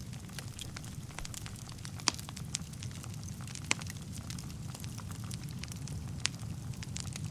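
Wood fire burning in a fireplace, with a steady low rumble of flames and irregular sharp crackles and pops; the loudest pops come about two seconds in and again about three and a half seconds in.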